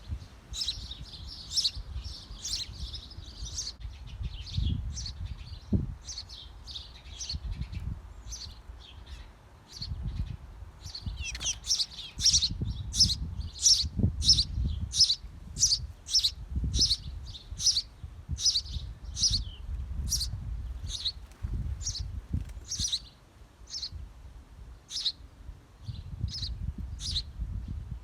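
Small birds at a birdhouse giving a long series of short, high chirps, about one to two a second, which grow louder about twelve seconds in. A low rumble runs underneath.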